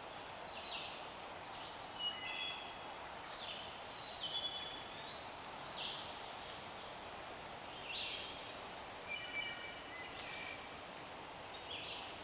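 Wild birds calling in woodland: short sharp high notes every one to two seconds, with a few level whistled phrases about two seconds in, four seconds in, and again near nine to ten seconds, over a steady outdoor hiss.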